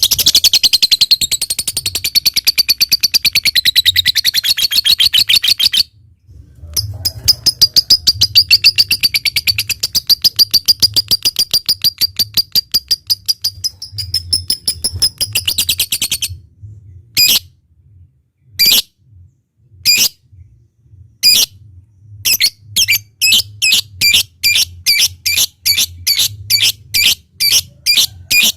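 Lovebird in full song: two long, fast rattling trills of rapid high notes (the 'ngekek panjang'), broken by a short pause about six seconds in. These are followed by spaced single sharp calls that settle into a quicker run of about three a second near the end.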